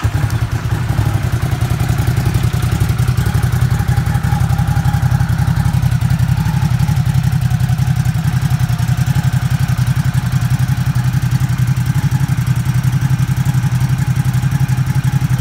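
Ducati SuperSport S's 937 cc Testastretta L-twin engine catching on the starter and idling steadily, with an even, fast pulse and no revving.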